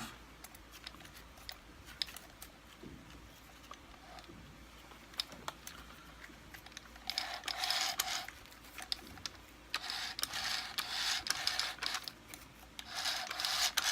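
Gears of a Kirby Sentria II vacuum's tech drive turned by hand. Scattered light clicks come first, then three spells of rattling gear noise in the second half. The owner suspects this tech drive is faulty because its top cog does not turn properly.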